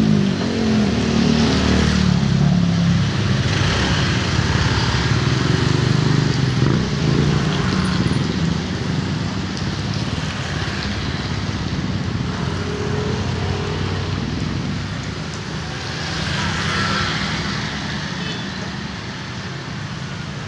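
Road traffic in heavy rain: a steady hiss of rain and tyres, with a motor vehicle's engine passing in the first couple of seconds.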